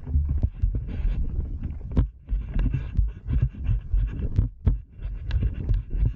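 A runner's footfalls and breathing picked up by a body-worn action camera: dull rhythmic thuds about two to three a second, with panting breath over them.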